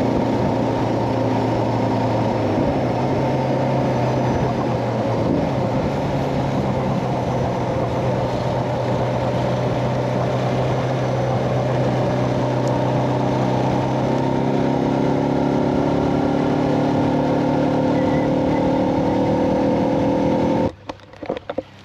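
Suzuki DR650's single-cylinder engine running steadily at road speed, with wind rush; the engine pitch shifts slightly a couple of times. The sound cuts off abruptly about a second before the end.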